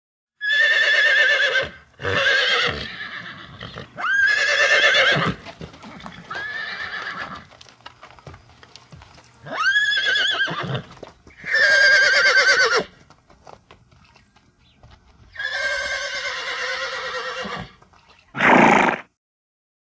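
Horse neighing: a series of about eight whinnies, each a second or two long, with a quavering pitch.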